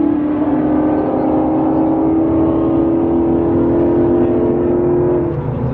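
A car engine held at high revs in one long note that rises slowly in pitch, then drops off about five seconds in.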